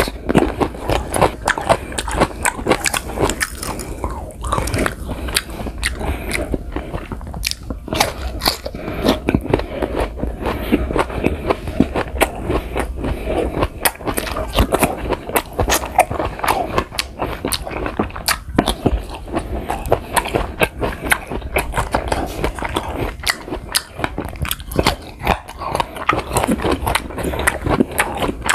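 Biting and chewing crisp green guava slices, with a dense run of sharp crunching clicks.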